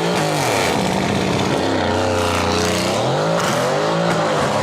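Car exhaust with the engine idling and revved up and back down about three times.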